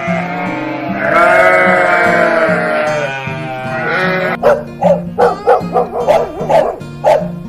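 A long bleat, then a dog barking in a quick run of about ten barks, over background music.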